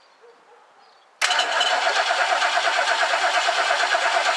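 Starter motor cranking the 1969 Lincoln Mark III's 460 V8 with a fast, even pulsing, starting suddenly about a second in. The engine turns over but does not fire, which the owner takes as a sign that the ignition points need replacing.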